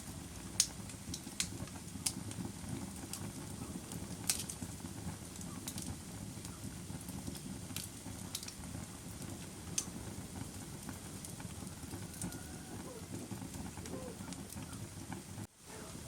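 Wood fire crackling: a steady low rumble of burning with sharp pops at irregular intervals, about one every second or two. The sound cuts out for a split second near the end.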